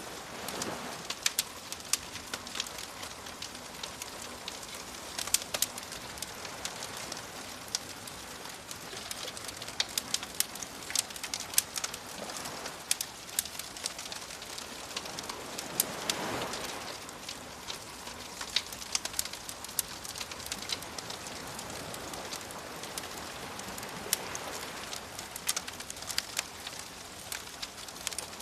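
Wood fire crackling with frequent sharp pops over the wash of ocean waves, which swell up about a second in, again about halfway through and once more near the end.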